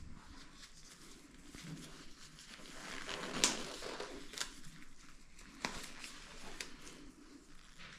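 Handling noises: soft rustling broken by several separate sharp clicks, the loudest about three and a half seconds in.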